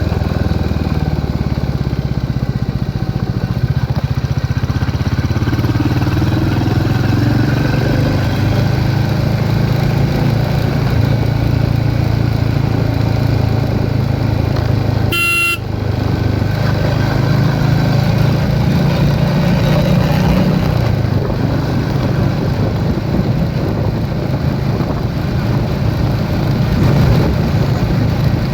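Royal Enfield Hunter 350's single-cylinder engine and exhaust running steadily, its low note swelling and easing slightly. A brief high-pitched beep cuts in once about halfway through.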